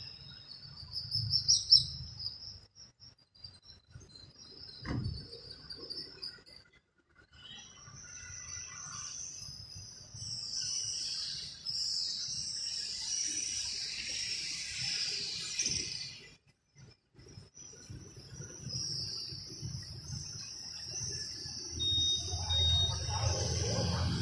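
Small birds chirping in quick, high twitters, on and off, busiest through the middle stretch. A low rumble swells near the end.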